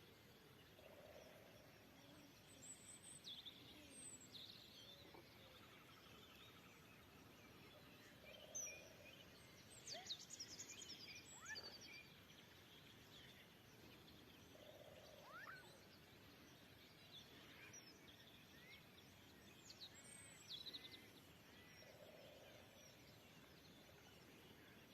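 Faint birdsong outdoors: scattered chirps and quick whistled notes from several small birds, busiest around the middle, over a quiet steady background hiss.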